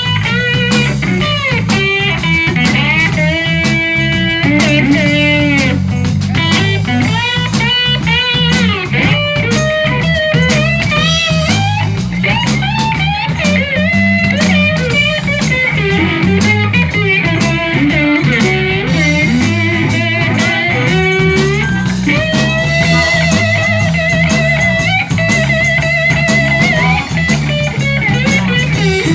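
Live blues band playing an instrumental break: a lead electric guitar soloing with bent notes over bass guitar and drum kit.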